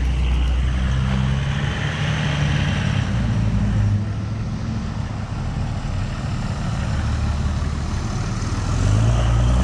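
Road traffic: a vehicle's engine running close by over tyre and road noise, growing louder near the end.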